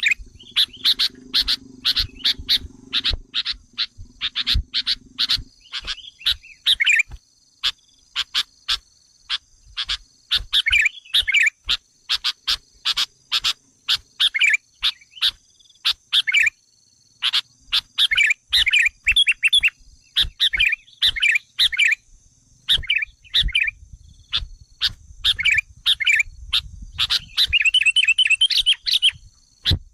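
Sooty-headed bulbul (kutilang) calls played as a bird-trapping lure: strings of sharp, rapid chirps broken by short bubbling song phrases, coming in uneven bursts. A faint steady high tone runs underneath.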